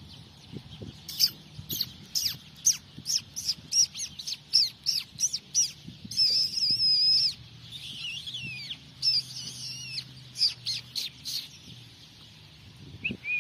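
A bird calling: a quick run of sharp, high chirps that sweep downward, about two a second, broken by one held whistled note about six seconds in, then a few more chirps.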